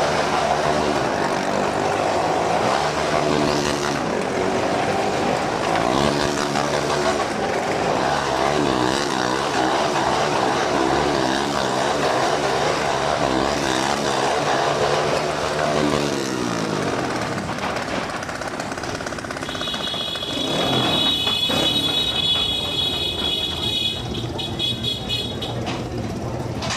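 Motorcycle engines running hard around a Wall of Death drum, their pitch rising and falling over and over. The engines wind down after about sixteen seconds, and later a high steady tone sounds for a few seconds.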